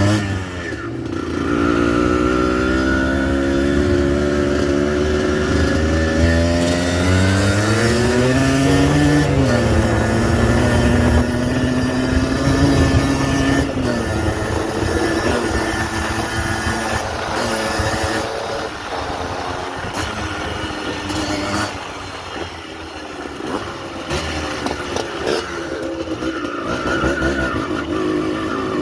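Yamaha DT 125 two-stroke motorcycle engine running, its pitch climbing as it revs up about eight seconds in and then holding steady. After about fourteen seconds the engine note turns quieter and rougher.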